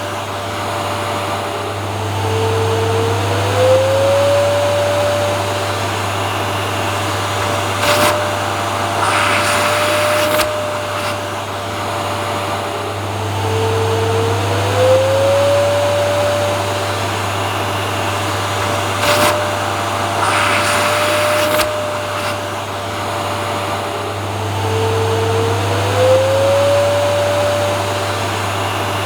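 Vacuum cleaner motor running steadily with a loud whooshing airflow. About every eleven seconds its pitch briefly drops and then climbs back up, three times in all.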